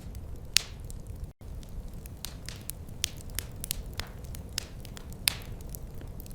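Wood fire crackling in a fireplace: irregular sharp snaps and a few louder pops over a steady low rumble of burning. The sound cuts out for an instant about a second and a half in.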